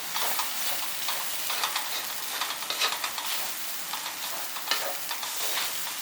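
Stir-fried ramen noodles and vegetables sizzling in a hot pan while being stirred and tossed, with frequent short clicks and scrapes of the utensil against the pan.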